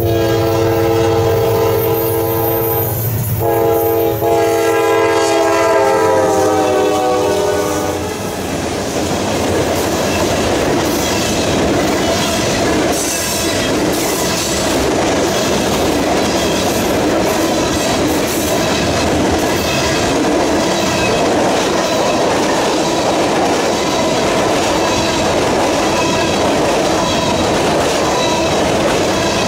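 Norfolk Southern freight locomotive's air horn sounding a chord in two blasts, with a short break about three seconds in. The chord drops in pitch as the engine goes by about eight seconds in. Freight cars then roll past close by, wheels clattering steadily on the rails.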